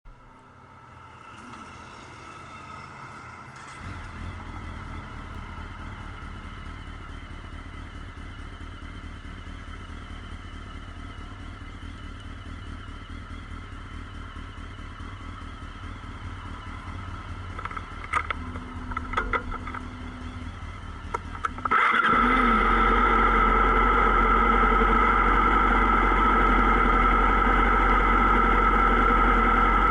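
Motorcycle engines starting and idling. One engine catches about four seconds in and runs steadily; about two-thirds of the way through, a much louder engine starts up close by and settles into a steady idle.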